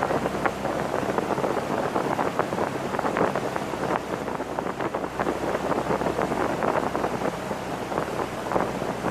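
Boat under way: a steady low engine hum under crackling wind buffeting on the microphone and rushing water.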